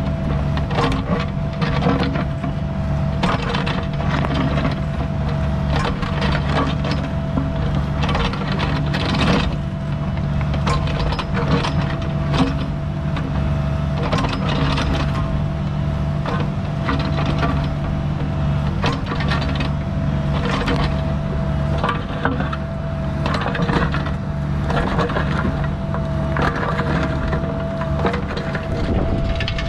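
Cat mini excavator running steadily under load while digging, its bucket scraping and knocking irregularly against dirt and stone.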